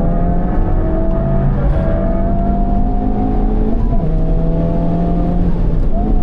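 Honda Civic Type R FL5's turbocharged 2.0-litre four-cylinder, heard through its Mugen exhaust, pulling hard under acceleration on track. Its pitch climbs slowly and drops a little twice, about a second and a half and four seconds in, as it shifts up, then rises again near the end.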